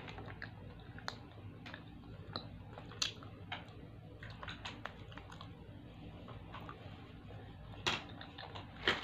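Close-up eating sounds of a person chewing fried chicken: scattered, irregular wet mouth clicks and smacks, with a couple of louder clicks near the end.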